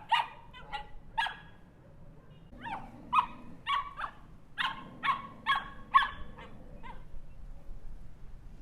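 Small dog barking in quick, high-pitched yaps: a few barks, a short pause, then a rapid run of about nine more that stops about seven seconds in.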